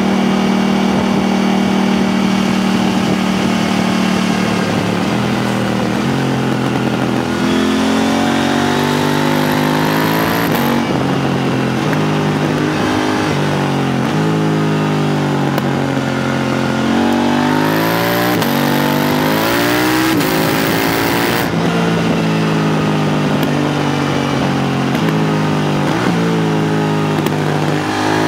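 KTM 890 Duke R's parallel-twin engine through an HP Corse Evoxtreme 310 exhaust with its dB killer fitted, heard on the bike while riding. The engine holds a steady note for the first few seconds, then repeatedly climbs in pitch under acceleration and drops back, again and again, as it runs up and down through the revs.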